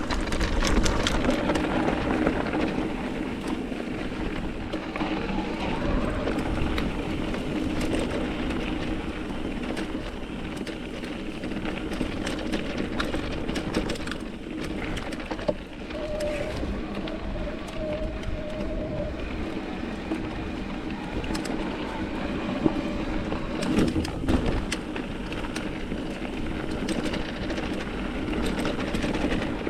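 Mountain bike riding over rocky desert trail: steady tyre rumble and rattling from the bike, with many small knocks and clicks.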